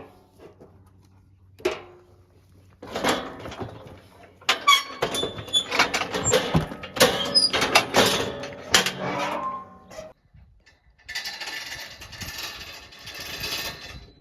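Metal cattle squeeze chute clanging and rattling as a heifer is worked through, with a few knocks at first and then a run of ringing metal clanks. Near the end the clanking gives way to a steady rushing noise.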